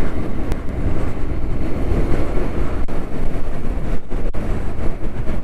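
Riding noise from a Honda NC750S motorcycle on the move: wind rushing over the microphone with the parallel-twin engine running underneath, a steady loud rumble.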